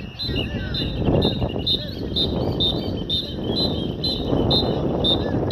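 A bird chirping steadily, about two short high notes a second, over a low, fluctuating noise of wind and a motorcycle moving slowly through a cone course.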